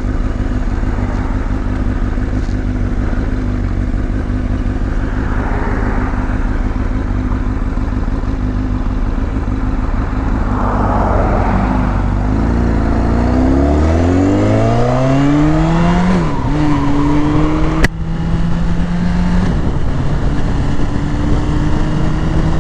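Sportbike engine running at low revs, then accelerating about halfway through with a steeply rising pitch, a brief dip as it shifts up a gear, and then holding a steadier, higher note. A single sharp click comes after the shift.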